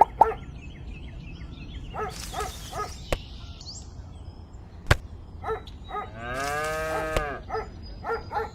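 A cow mooing: one long call a little over six seconds in, with short pitched blips repeating in small groups before it and a couple of sharp clicks.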